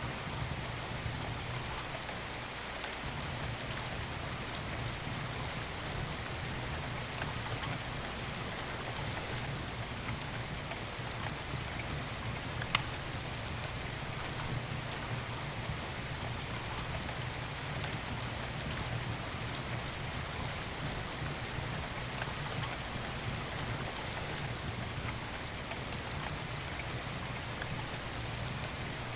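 Steady rain with a wood fire burning in a fireplace, a few faint crackles and one sharp pop about halfway through.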